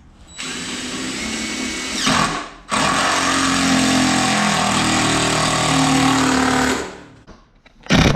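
Cordless drill driving a screw into wooden benchwork: a short run that winds down with a falling whine about two seconds in, then a longer, louder run of about four seconds as the screw goes in. A few short knocks follow near the end.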